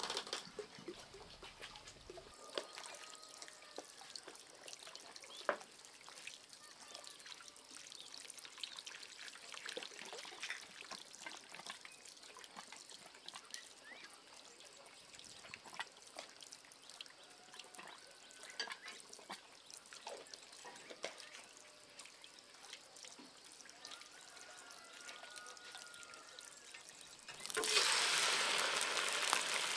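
Faint trickling water with small scattered clicks and knocks, then a couple of seconds before the end a loud, steady sizzle starts suddenly as food goes into hot oil.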